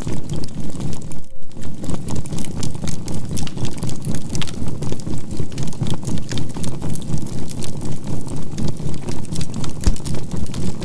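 Campfire crackling, layered with a low hum and a faint steady tone near 528 Hz, the whole mix pulsing evenly in loudness about three to four times a second as a binaural-beat healing track.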